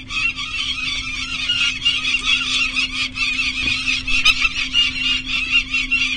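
Peregrine falcons calling: a continuous run of harsh, rapidly repeated notes, the agitated cacking heard when the nest is disturbed during chick banding. A steady low hum runs underneath.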